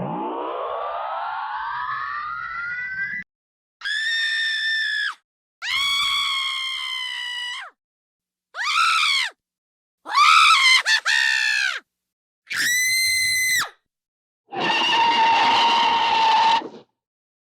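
A string of stock cartoon sound effects: a long rising glide in pitch, then six separate high-pitched screams and yells, each a second or two long with short silences between them.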